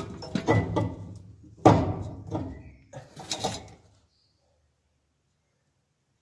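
Clunks and knocks of heavy metal parts being handled and fitted, in a few irregular bouts that stop about four seconds in.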